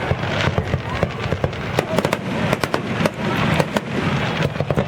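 Fireworks going off: many sharp bangs and crackles in quick succession over a constant low rumble.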